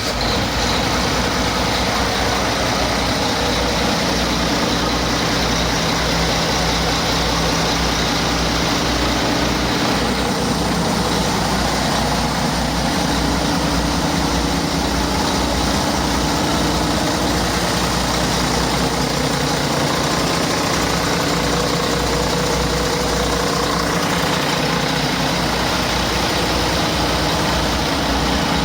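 2010 International MaxxForce 13 inline-six diesel engine idling steadily with an even, low rumble.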